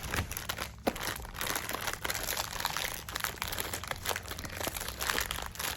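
Plastic snack packaging of Parmesan cheese straws being handled and opened, crinkling irregularly.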